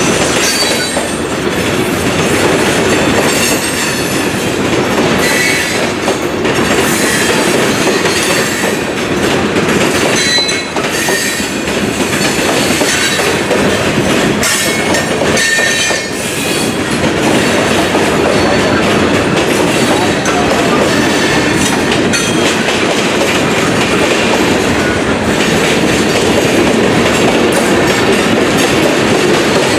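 A train rolling steadily past through a railroad interlocking: the cars' wheels click and clatter over rail joints and switches, with brief faint wheel squeals.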